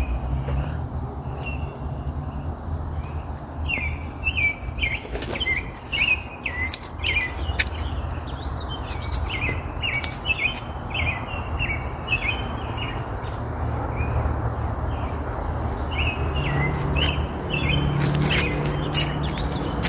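Small songbirds chirping in quick, repeated short notes, over a steady low rumble that swells near the end.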